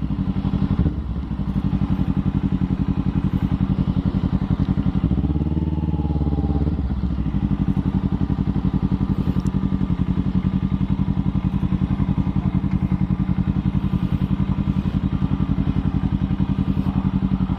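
Motorcycle engine running steadily while being ridden, heard from on the bike, with a brief rise and fall in revs about five to seven seconds in.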